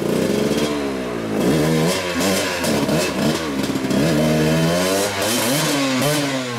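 Dirt bike engine revving up and down over and over, its pitch rising and falling several times as the rider works the throttle through a rocky water crossing.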